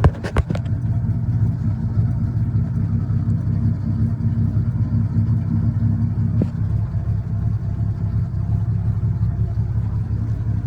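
Turbocharged 4.9-litre Ford 300 inline-six of a 1974 Ford F100, just started and idling steadily through a 3-inch exhaust. There are a few sharp clicks right at the start.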